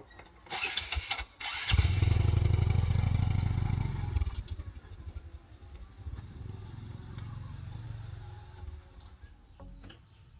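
A motor engine, such as a motorbike's, running close by after a short burst of noise: loudest for a couple of seconds, then quieter and steady until it fades near the end.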